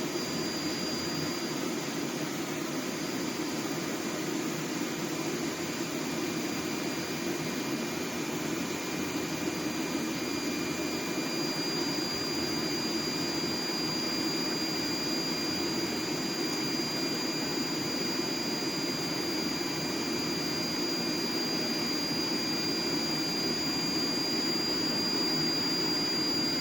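Heat Star portable propane heater running on its high setting: a steady rushing burner noise with a faint, steady high-pitched tone, slowly growing a little louder.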